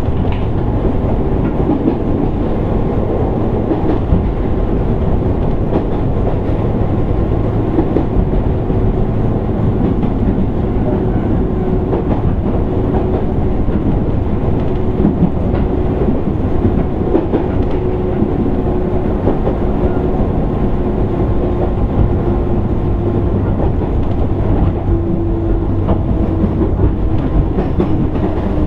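Running sound from inside a JR East 205 series 600 subseries electric motor car (MoHa 204-604). A steady rumble of wheels on rail with occasional rail-joint clicks, and a humming tone that drops slightly in pitch near the end.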